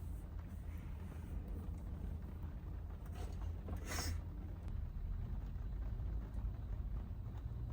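Steady low road and engine rumble inside a Toyota HiAce van's cabin while driving, with a brief whoosh about four seconds in.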